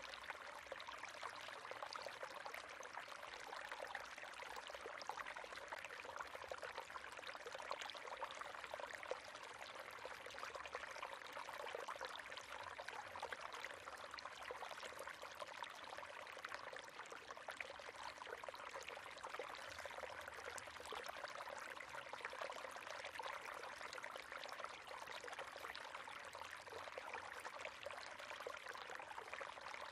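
River water flowing steadily over stones, a continuous babbling rush with fine splashing detail.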